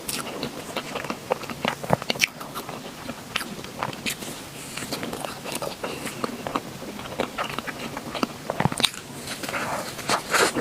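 Close-miked eating: a person biting and chewing food, with many irregular small mouth clicks and wet chewing sounds.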